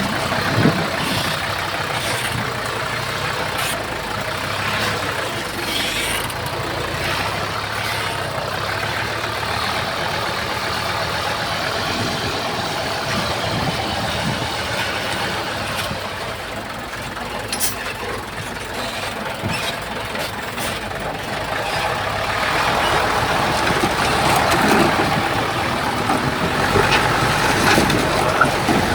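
Diesel engine of heavy earthmoving machinery running steadily, with a few sharp clanks. It gets louder about three-quarters of the way through, as the machine works harder or comes closer.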